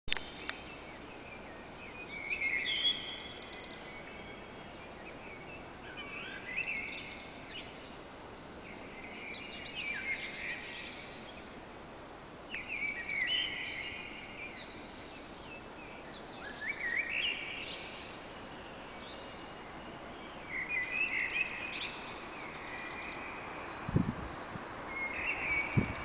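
Bird song in the dark before dawn: short, varied high phrases with trills and quick glides, one every three to four seconds, over steady background noise. A sharp low knock comes near the end.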